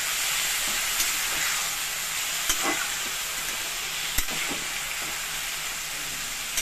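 Finger-cut potatoes sizzling in mustard oil in a metal kadhai as a metal spatula stirs them, with three sharp clinks of the spatula against the pan.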